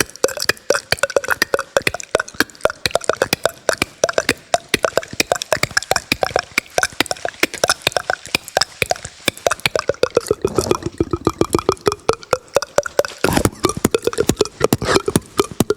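Beatboxing: a rapid, even stream of mouth clicks, several a second, over a throaty pitched tone, with louder low throat-bass stretches about ten and thirteen seconds in.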